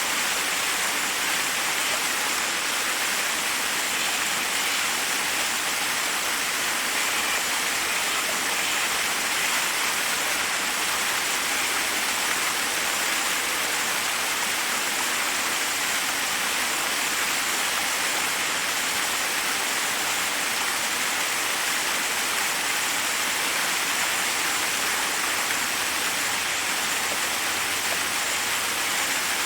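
Forest waterfall: water cascading over rocks in a steady, unbroken hiss.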